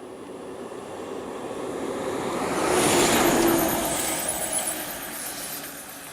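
A road vehicle passing close by, its engine and tyre noise swelling to a peak about three seconds in and then fading away.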